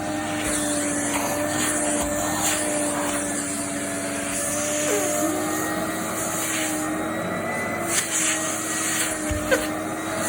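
Vacuum cleaner running steadily, a constant motor hum under an airflow hiss that swells and fades. A few short knocks near the end.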